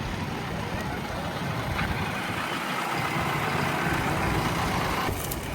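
JCB backhoe loader's diesel engine running, getting louder from about two seconds in and dropping back just before the end.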